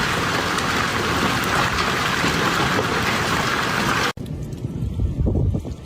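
Heavy rain, a dense steady hiss, cut off sharply about four seconds in. A lower, uneven rumbling follows.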